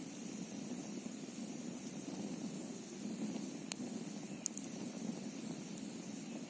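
Wood campfire burning with a couple of sharp crackling pops a little past the middle, over a steady low rushing background of the kind the video layers in from wind and a flowing stream.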